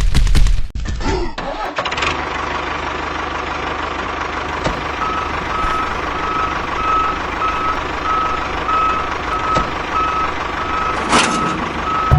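A vehicle engine running steadily. From about five seconds in, a reversing beeper sounds in short, even beeps about twice a second.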